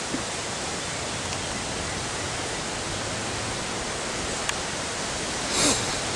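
Severe thunderstorm (derecho) wind and heavy rain as a steady rushing noise, with a brief louder surge near the end.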